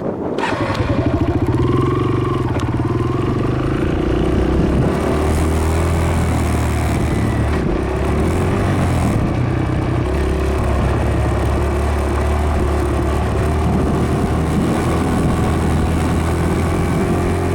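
Dirt bike engine running under way at a steady riding pace, its pitch shifting a little about five seconds in.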